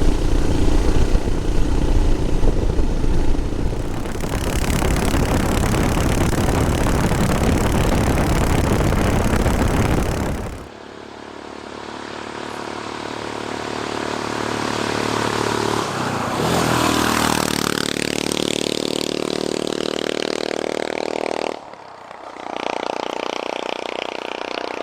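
Royal Enfield Himalayan's single-cylinder engine through a Lextek aftermarket end can, pulling hard up a steep hill under load. For the first ten seconds wind rush on the microphone swamps it. After that the exhaust note comes through clearly and rises in pitch, dropping briefly and climbing again twice, about 16 and 22 seconds in.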